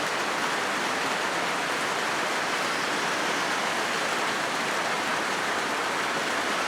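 Rain falling steadily on a corrugated zinc roof: an even, unbroken hiss of many drops on the metal sheeting.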